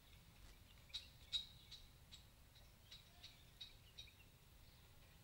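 Near silence, with faint, short bird chirps scattered through, about a dozen of them.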